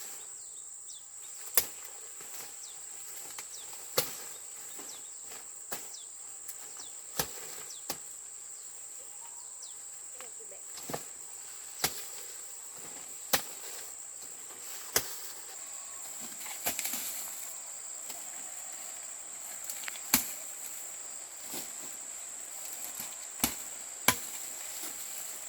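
Sharp cracks of corn being harvested by hand, a dozen or so spaced a second or two apart, with a brief rustle of leaves about two-thirds of the way through. A steady high-pitched drone of insects runs underneath.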